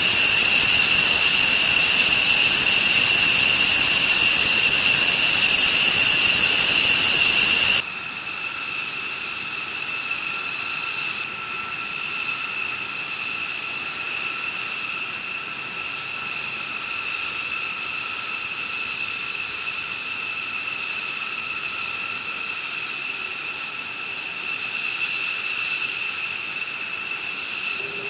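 Jet engine running with a steady high-pitched turbine whine over a loud rush of noise. About eight seconds in, the sound cuts abruptly to a quieter, steady jet whine.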